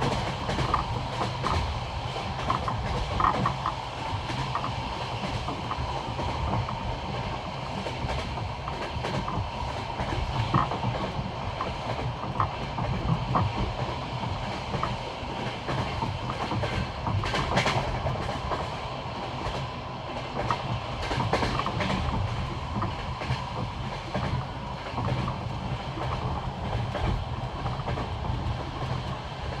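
Passenger train's wheels clattering over the rail joints of old jointed track, a steady run of clicks over a continuous rolling rumble.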